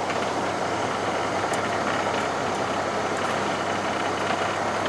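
A fishing boat's engine running steadily, with a constant low hum under an even rushing noise.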